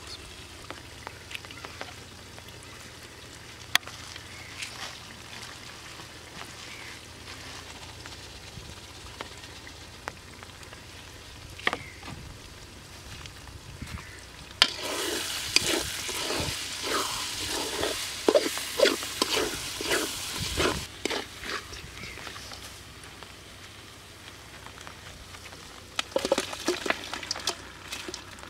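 Onion-tomato masala sizzling in an aluminium pot, with scattered crackles. About halfway in, it turns to a louder, steadier sizzle while a metal spatula scrapes and stirs the pot about two or three times a second. Near the end there is a short run of knocks as boiled chicken pieces are tipped into the pot.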